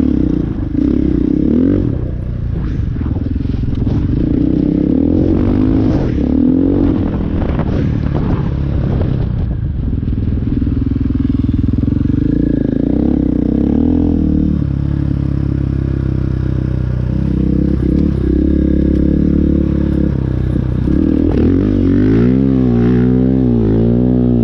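Dirt bike engine running under load, its pitch rising and falling with the throttle, with scraping and clattering mixed in. The note settles lower and steadier about halfway through, then swings up and down several times near the end.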